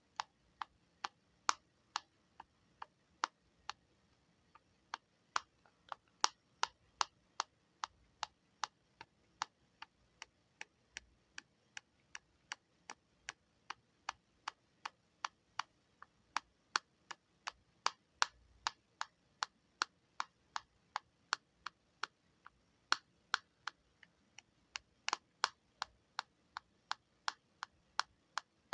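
A button being clicked over and over, sharp short clicks in a steady rhythm of about two and a half a second.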